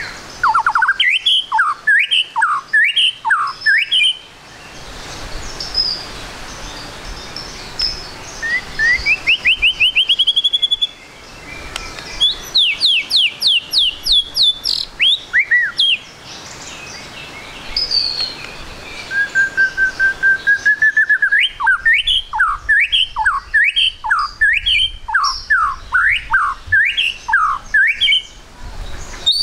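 White-rumped shama (murai batu) singing loud phrases of sweeping whistled notes: runs of repeated slurred notes, a rising run, quick high falling notes, and a long level whistle that leads into another run, with short pauses between phrases.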